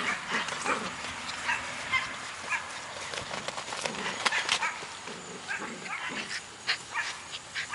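Golden retriever puppies giving scattered short yips and barks, with small clicks and knocks in between.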